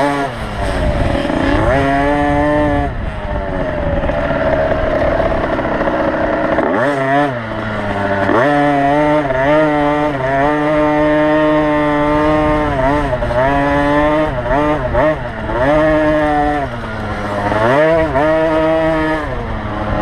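A 50cc two-stroke motocross bike's single-cylinder engine revving hard, its pitch rising and falling as the throttle is worked. The revs drop sharply about seven seconds in and again near the end before climbing back.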